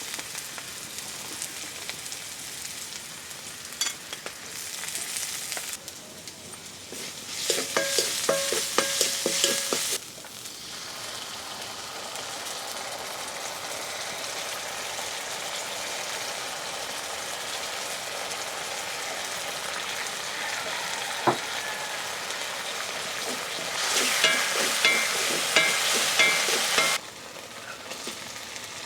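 Chicken frying in hot oil in a pan, a steady sizzle, with two spells of stirring where a utensil scrapes against the pan a few strokes a second, about a third of the way in and near the end, each stopping abruptly. A single sharp click comes about two thirds of the way through.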